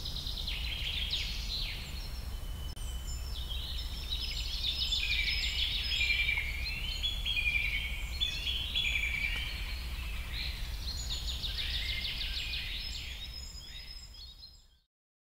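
Birdsong: several small birds chirping and trilling over a steady low rumble, fading out near the end.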